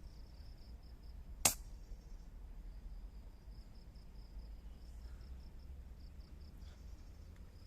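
A single air rifle shot: one sharp crack about a second and a half in. Behind it, insects keep up a high, pulsing trill.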